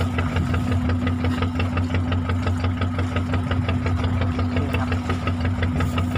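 Fishing boat's engine idling steadily with an even, rapid knock.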